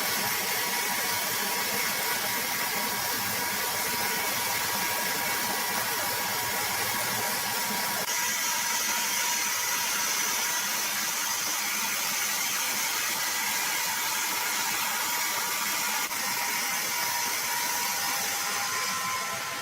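Sawmill machinery running steadily: a continuous mechanical noise with faint high whining tones, changing abruptly about 8 and 16 seconds in.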